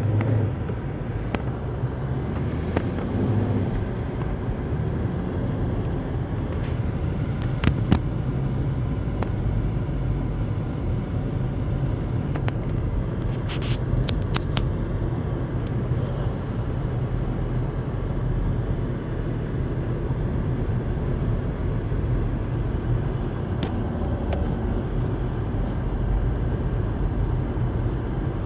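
Car driving on a snowy highway: a steady low rumble of engine and tyre noise, with a few brief sharp clicks and knocks scattered through it.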